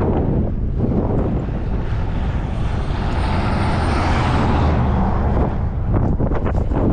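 Wind buffeting the microphone with a steady low rumble, while a passing motor vehicle's road noise swells to a peak about four seconds in and fades away.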